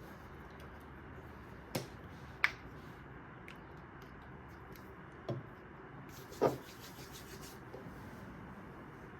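Light handling sounds: four brief taps or knocks spread across a steady low hiss, with faint rubbing between them.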